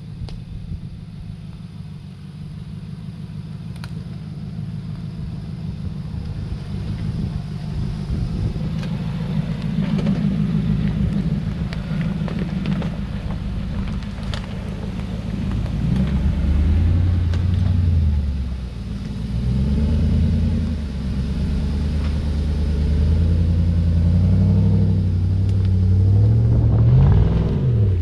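A 4WD's engine running under load, getting louder through the clip, then revving up and down repeatedly from about halfway.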